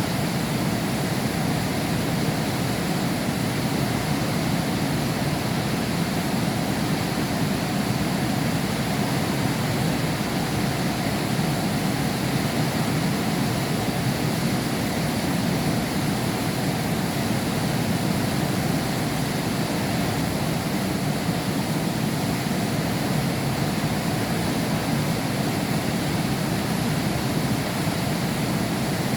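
Heavy rain falling steadily, heard through window glass: an even, unbroken hiss with most of its weight low down.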